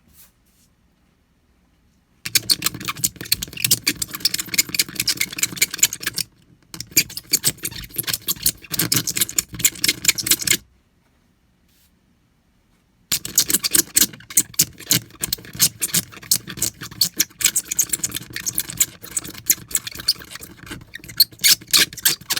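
Razor blade scraping across windshield glass in three spells of rapid strokes with short pauses between them, shaving off the cured pit-fill resin after a chip repair.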